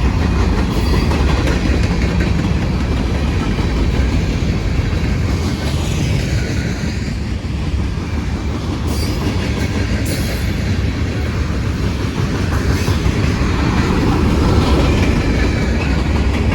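Freight cars of a CSX manifest train rolling past in a steady loud rumble, wheels clicking over the rail joints, with a few faint high wheel squeals.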